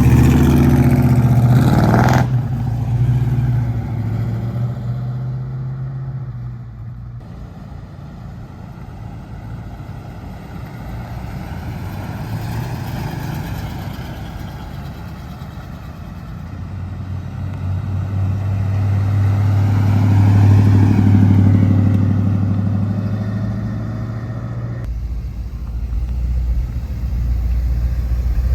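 Car engines: a loud engine fades away about two seconds in, another swells and fades as it passes around twenty seconds in, and a deep engine idles close by near the end.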